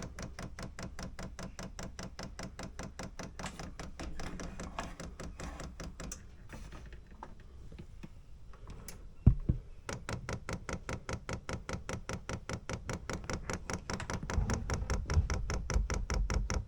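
Chinese 12 V diesel heater's solenoid fuel dosing pump priming, clicking rapidly and evenly as it draws fuel up a line that holds a lot of trapped air. A single loud thump about nine seconds in.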